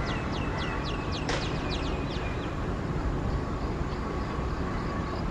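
WAP-4 electric locomotive approaching with a steady low rumble. Over it a bird calls a quick series of descending whistles, about four a second, stopping about two and a half seconds in, with one sharp click about a second in.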